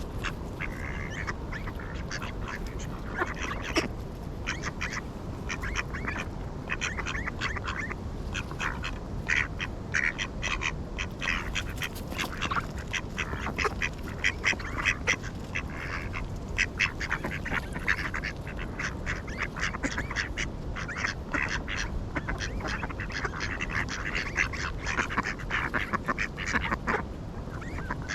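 Ducks quacking: many short, rapid calls coming in bursts, busiest in the middle and near the end, over a steady low background rumble.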